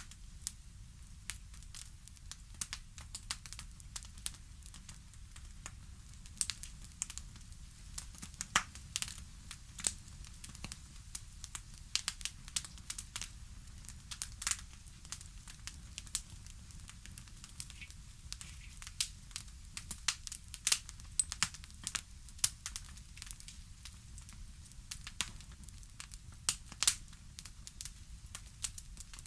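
Wood fire crackling: irregular sharp pops and snaps, several a second, over a faint low rumble of the flames.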